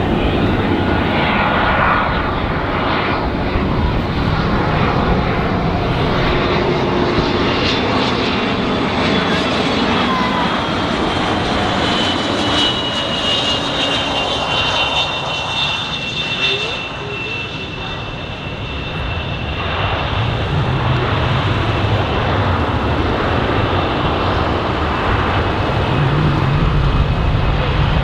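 Bombardier Challenger 350 business jet with its twin Honeywell HTF7350 turbofans running: a steady jet noise with a high turbine whine that drifts slightly lower about halfway through, then a heavier low rumble near the end.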